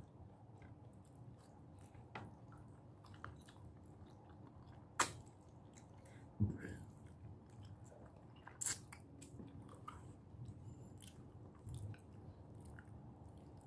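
Faint chewing and mouth sounds of someone eating rice and salmon with her fingers, with a few sharp clicks about 5, 6.5 and 9 seconds in.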